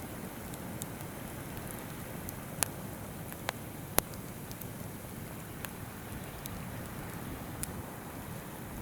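Wood campfire crackling, with a few sharp pops between about two and a half and four seconds in, the last the loudest, over the steady rush of a babbling river.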